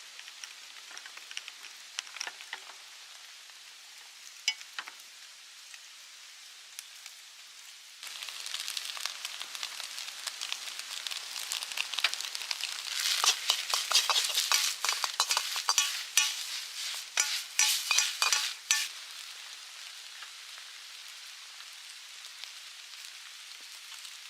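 Fried rice sizzling in a hot wok. The hiss starts suddenly about a third of the way in, and a metal spatula clatters rapidly against the pan through the middle as the rice is stirred and tossed. Light rain patters faintly before the sizzle begins.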